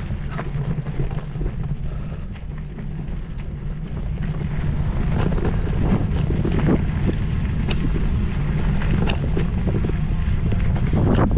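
Wind buffeting the microphone in a steady low rumble, with scattered short clicks and rattles throughout.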